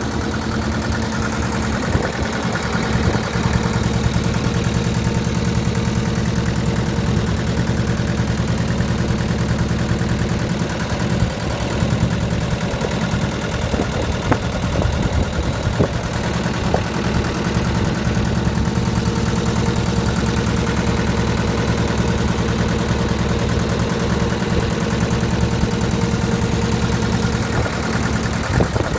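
Massey Ferguson 210 tractor's two-cylinder diesel engine running steadily at idle.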